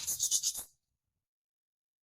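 Quick abrasive rubbing strokes of a hand tool on wood, about four of them, that stop abruptly under a second in and give way to dead silence.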